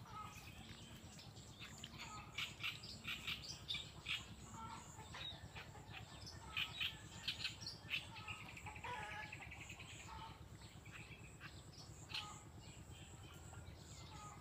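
Small birds chirping in short quick calls, in two clusters a couple of seconds in and again about a third of the way through, with a longer falling call just after that, over a faint steady outdoor background.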